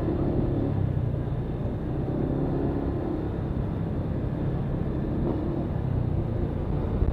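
Motorcycle engine running while riding, a steady low rumble with its pitch shifting a little, picked up by an SJCAM action-camera external microphone padded with tape and cotton against wind noise.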